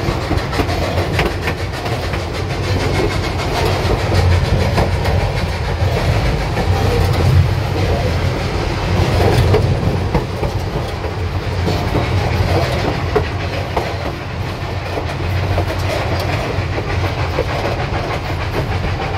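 Durango & Silverton narrow-gauge passenger train rolling along the track: a steady rumble of the moving car with short irregular clicks and knocks from the wheels on the rails.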